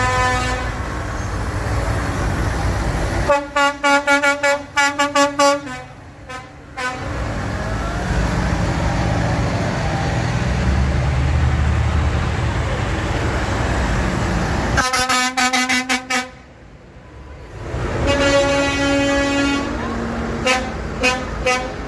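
Tractor horns sounding quick runs of short toots, several times, with some longer held notes, over the steady running of tractor diesel engines.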